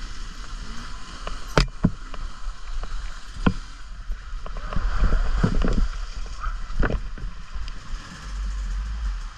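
Wind buffeting the microphone of a camera on a moving off-road bike, with a steady hiss. Sharp knocks and rattles come several times, strongest about one and a half seconds in, three and a half seconds in and near seven seconds, as the bike rides over rough, muddy ground.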